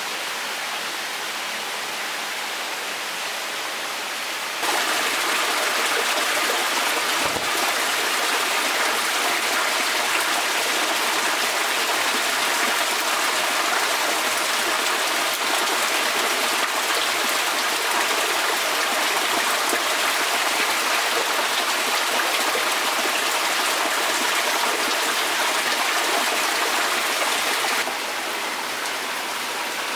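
Forest stream running steadily, an even rush of water that steps up louder about five seconds in and drops back near the end. A soft low thump about seven seconds in.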